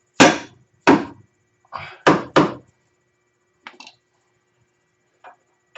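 Five sharp knocks in under three seconds, then a few faint clicks: tools and metal parts striking each other while an ATV's front suspension is being put back together.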